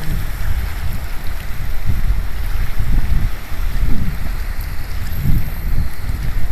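Wind buffeting the microphone in irregular low rumbles, over a steady hiss of wind.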